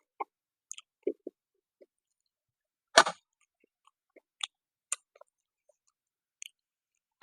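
A person eating close to the microphone: short, wet chewing and lip-smacking sounds at irregular intervals. One sharp, louder click comes about three seconds in.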